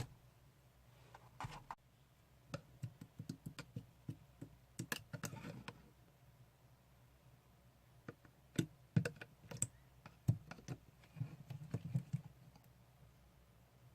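Slime being squished, stretched and poked by hand, making quick irregular clicks and small pops in two spells with a short pause between.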